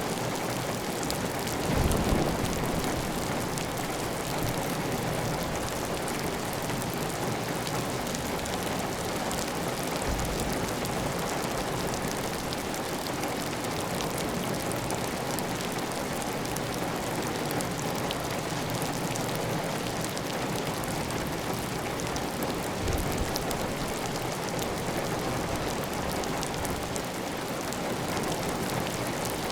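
Heavy, steady rain on a clay-tile roof, with water running off the roof edge. A brief low rumble rises above the rain about two seconds in, and a fainter one comes later.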